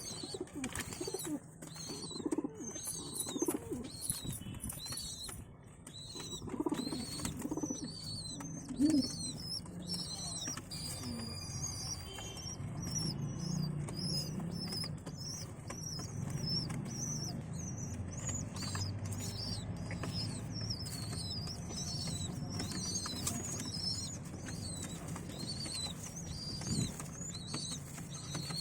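Pigeons: low cooing in the first several seconds, with short high chirps repeated quickly all through and a low rumble under the later part.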